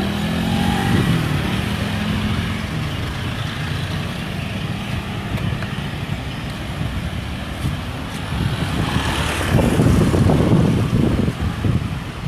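Road traffic of passing cars and pickups: engines running under a steady drone, with one vehicle passing louder about nine to eleven seconds in.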